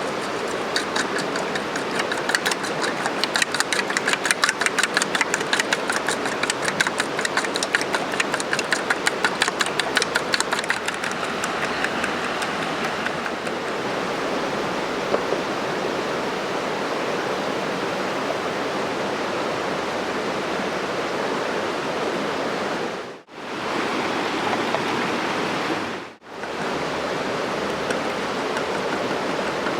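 A wood campfire burning with a steady hiss. For the first twelve or so seconds a fast, even clicking runs over it. Near the end the sound drops out briefly twice.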